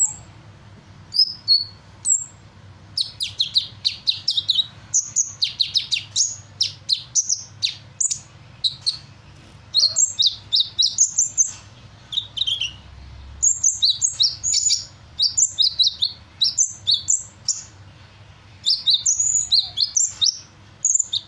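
Caged sunbird singing hard: bouts of rapid, high chirps and quick falling notes with short pauses between them, a song that mixes in imitations of other birds' calls.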